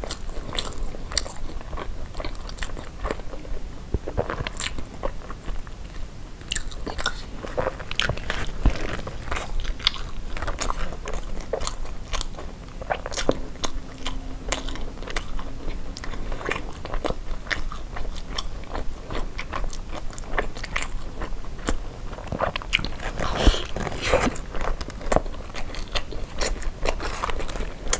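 Close-miked chewing of zongzi, sticky glutinous rice and cured meat in bamboo leaves: wet mouth sounds with many small irregular clicks and crackles, along with the stiff bamboo leaves rustling as they are peeled back.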